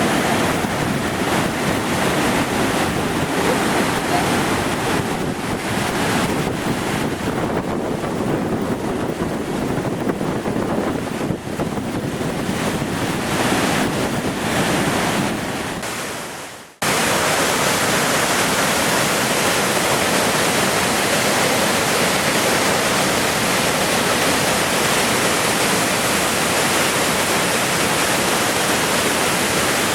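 Steady rush of a waterfall. About 17 s in, it fades and then cuts abruptly to another stretch of falling water with a brighter, hissier sound.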